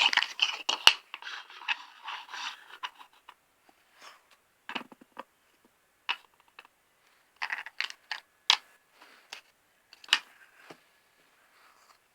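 Small plastic toys and accessories being handled and sorted. A rustling scrape runs for the first few seconds, then come scattered sharp clicks and taps as pieces are picked up and set down.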